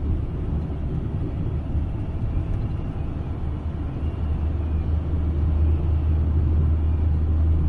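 Strong wind buffeting the microphone: a loud, steady low rumble that gusts a little and grows louder in the second half.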